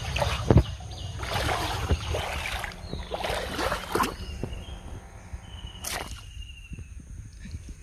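Water splashing and sloshing in several short bursts during the first four seconds. A bird calls in the background, one clear held note about six seconds in.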